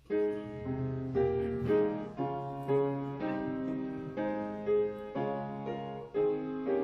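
Piano playing a slow passage of struck notes and chords, each fading before the next.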